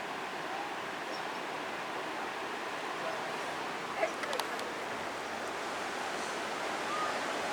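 Steady rushing and churning of water from a tidal bore surging up a river, with a few faint sharp clicks about four seconds in.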